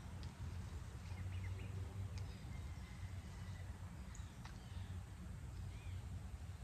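Faint outdoor ambience: a steady low rumble with scattered short bird chirps and a few faint clicks.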